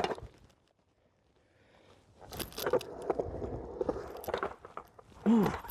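Skateboard wheels rolling and clattering on concrete, picked up close to the board. It breaks off about half a second in, starts again after about two seconds, and near the end there is a short, loud exclamation whose pitch rises and falls.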